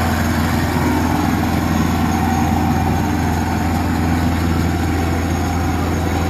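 Tractor diesel engine running steadily at an even, low pitch.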